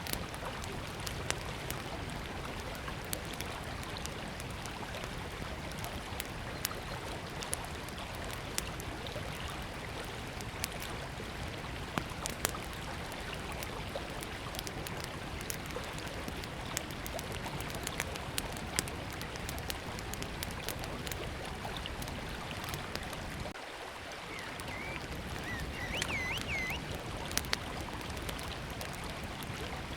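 Small wood campfire crackling with irregular sharp pops over the steady rush of a river. A small bird chirps a few times near the end.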